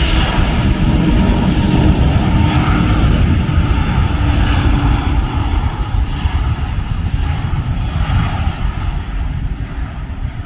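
Airbus A380's four jet engines at takeoff power on departure: a loud, deep rumble with crackle, slowly fading in the second half as the airliner moves away.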